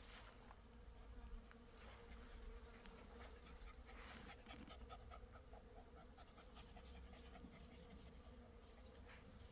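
Faint steady buzzing of bees around blooming black locust trees, with a brief run of quick, evenly spaced pulses near the middle.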